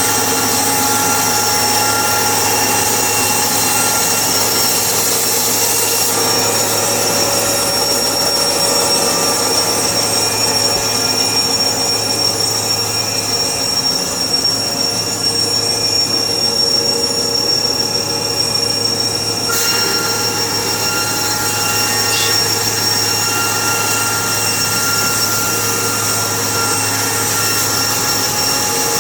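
Sawmill saw running steadily with a high squealing whine over a low hum, its tone shifting a couple of times.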